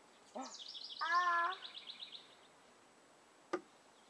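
Bird chirping in a fast trill that falls in pitch, with a toddler's short drawn-out vocal sound about a second in. A single sharp knock near the end.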